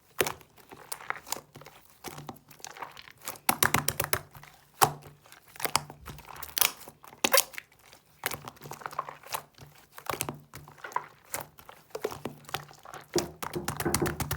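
Slime being mixed by hand, squished and stretched so that it gives off irregular runs of sharp, wet clicks and crackling pops.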